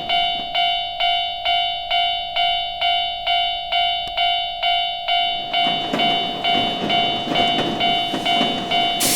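Railroad crossing warning bell ringing steadily, about two strikes a second, each strike ringing out and fading. From about halfway a low rumbling noise joins in, and a loud hiss bursts in right at the end.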